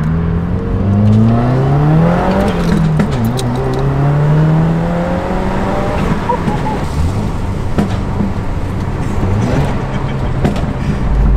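Subaru WRX's turbocharged flat-four, with a muffler delete and a tune set up for burbles and crackles, heard from inside the cabin under hard acceleration. The revs climb, drop at a gear change about two and a half seconds in, climb again, and then fall back near the seven-second mark to a steady cruise. Sharp crackles follow each drop in revs.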